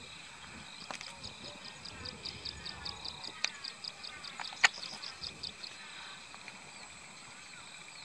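A small bird calling: a fast, even series of short high notes, about five a second, lasting several seconds. A sharp click is the loudest sound, a little past the middle.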